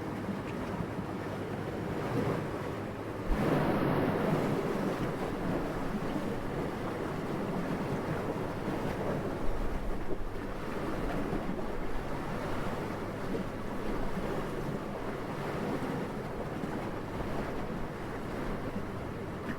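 Wind blowing steadily, with a stronger gust swelling up suddenly about three seconds in and easing off over the next few seconds.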